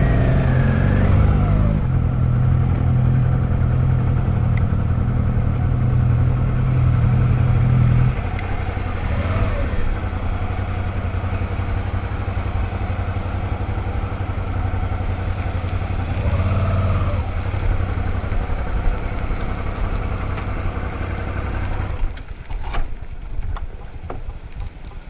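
Motorcycle engine running steadily under way, its note settling lower about eight seconds in. Near the end the engine sound drops away and a few sharp clicks follow.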